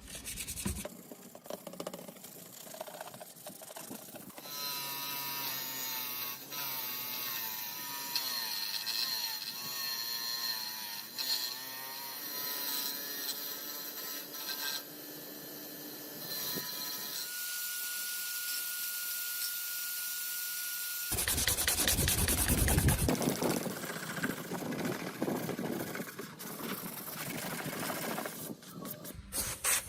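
Power tools worked on metal parts in a series of separate bouts: a motor whine whose pitch wavers as the tool is loaded, then a steady whine, then a short loud rumble about two-thirds of the way in, followed by scraping noise.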